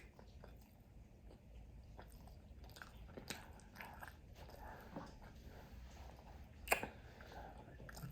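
A person chewing and biting food close to the microphone: faint, irregular mouth clicks and crunches, with one sharper crunch about seven seconds in.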